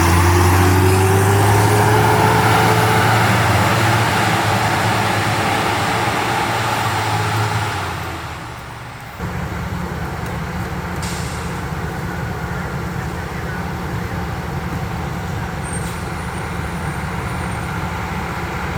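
Heavy truck engine running loud and pulling away, its pitch rising as it speeds up, then fading. About nine seconds in the sound changes abruptly to a steadier truck engine and traffic rumble.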